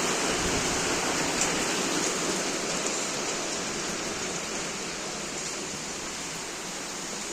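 Heavy rain falling steadily, a dense even hiss of water, growing slightly quieter over the seconds.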